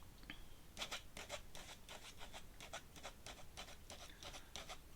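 Metal dip-pen nib scratching on paper in a quick series of short, faint strokes, starting about a second in.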